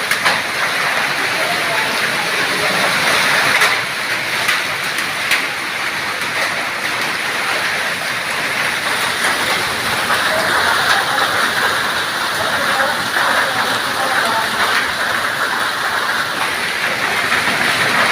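Heavy rain pouring down, a dense steady hiss of drops striking the ground and hard surfaces, with a few sharper taps early on.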